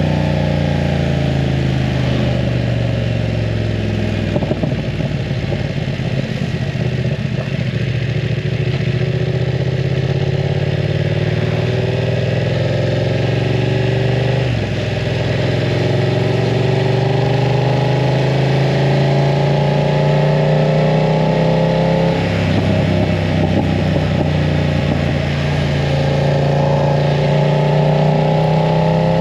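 BMW F900 R's parallel-twin engine with a full aftermarket exhaust, running while the bike is ridden. The engine note climbs and falls with the throttle and drops suddenly at gear changes, about halfway through and again later on.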